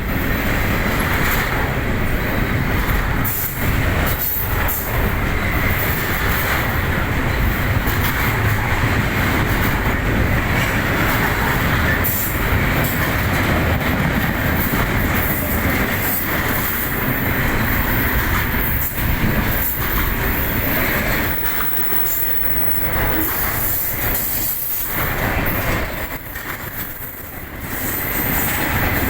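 A train's cars rolling past in a steady loud rumble, with wheels clicking over rail joints. The sound eases briefly near the end.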